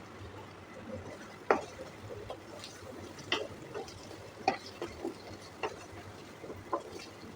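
Cooking utensil stirring in a pan, with irregular sharp clinks and knocks over a low steady hiss.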